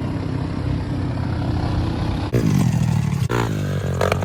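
Pit bike engine running, with a rev that glides in pitch about two seconds in; the sound changes abruptly a couple of times.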